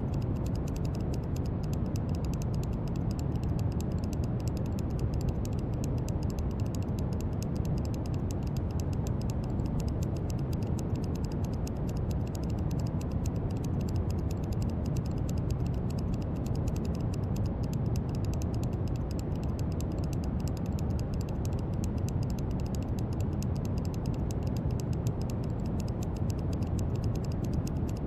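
Brown noise: a steady, deep rushing hiss, strongest in the low end and unchanging throughout.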